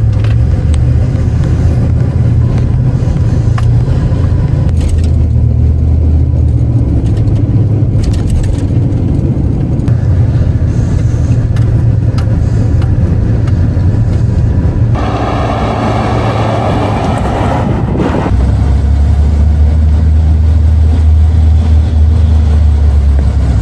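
A motor vehicle's engine running loudly at a steady pitch that drops and rises in steps. A separate higher tone joins it for about three seconds near the fifteen-second mark.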